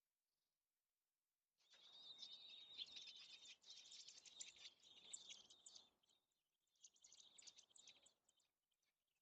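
Rapid high-pitched chirping from robins at the nest, with a rustling noise underneath. It comes in two bursts: a long one starting about a second and a half in, and a shorter one near the end.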